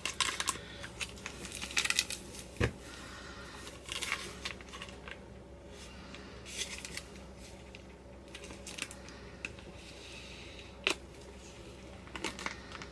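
Paper and plastic packaging rustling and crinkling as it is handled and opened, with a sharp knock about two and a half seconds in and a few lighter clicks.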